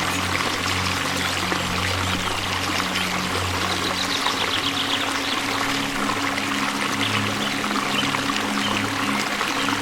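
Steady rushing of a waterfall, with soft low held music notes underneath that change pitch about halfway through.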